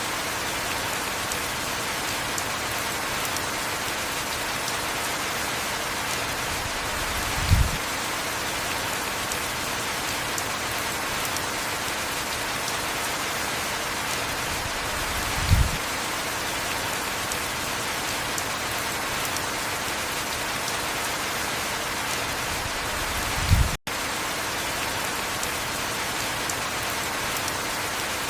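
Steady heavy rain, an even hiss with no let-up. A short low thump comes about every eight seconds, three times, and the sound cuts out for a split second just after the third.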